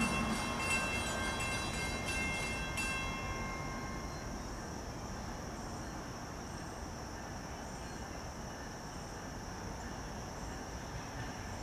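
A train that has just gone by fading away: a stack of high, steady ringing tones with quick regular clicks dies out about three seconds in. After that only a steady background hiss with a high, even hum remains.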